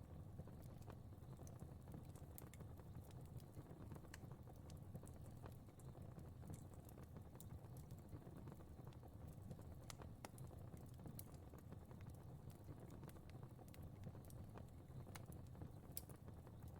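Fireplace fire crackling faintly: irregular sharp pops and snaps over a low steady rumble.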